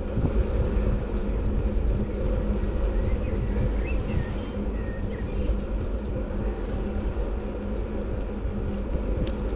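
Wind rushing and buffeting over the microphone while riding, a steady rough rumble, with a few faint high chirps near the middle.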